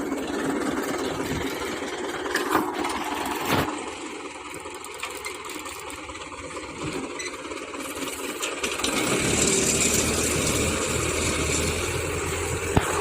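Indo Farm 3065 tractor's engine running, with two sharp knocks early on; about nine seconds in a deep low rumble comes in and the engine grows louder.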